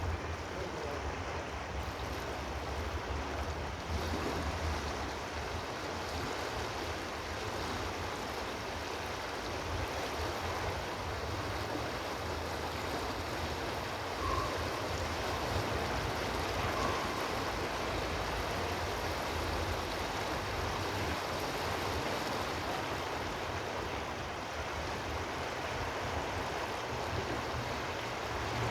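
A stream of water flowing steadily, a constant rushing with no swells. Two brief faint high notes come in around the middle.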